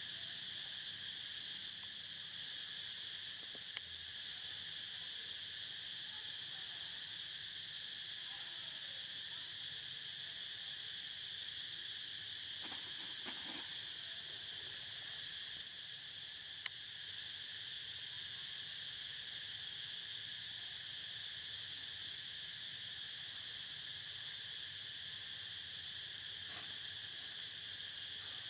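Steady insect chorus: a continuous high-pitched buzzing trill that never lets up, with a few faint clicks now and then.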